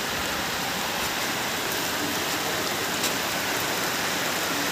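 Heavy rain falling steadily on plastic tarpaulin sheeting and standing water, with one sharp tap about three seconds in.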